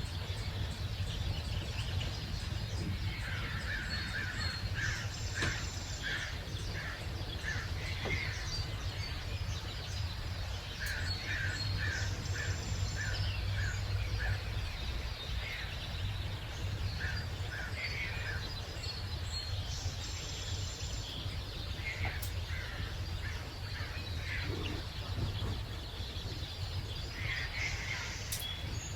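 Wild birds calling at dawn, with one bird repeating a short call in runs of several notes at about two a second, over a steady low background rumble.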